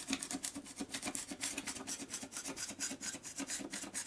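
Utility knife blade sawing through styrofoam in quick back-and-forth strokes, several a second, trimming an edge round.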